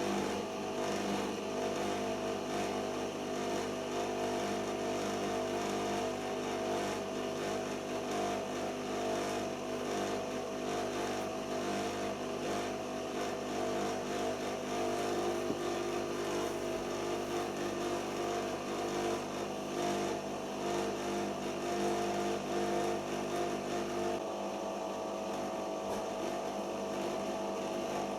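Siemens iQ front-loading washing machine running its anti-crease final spin: a steady motor hum and drum whir with a few held tones. The tone shifts slightly near the end.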